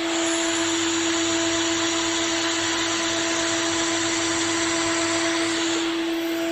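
Tomahawk Pro CNC machine running a machining pass: the spindle gives a steady, unchanging whine over a dense rushing noise of the cut. The rushing lessens near the end while the whine carries on.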